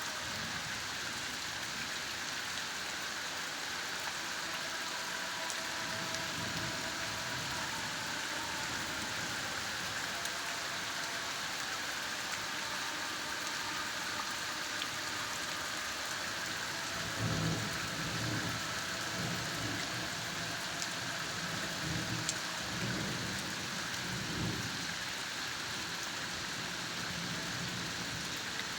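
Steady light rain falling, an even hiss of many drops on surfaces. In the second half a few low rumbles rise and fall under the hiss.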